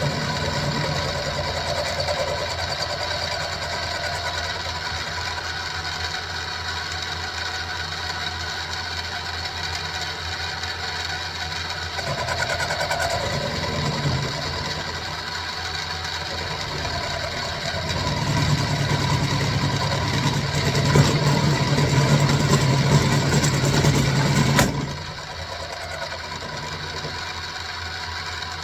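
Central Machinery (SIEG X2-type) mini milling machine running, its motor and gear head whining steadily while an end mill cuts 1045 steel. The cut grows louder and rougher in the later part, then stops abruptly near the end, leaving the mill running more quietly.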